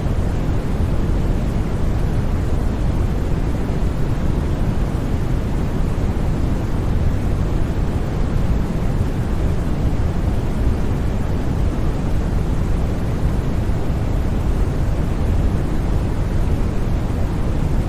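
Steady white noise for sleep: an even, unbroken rush that never changes, weighted toward the low end so that it sounds deep and rumbling rather than hissy.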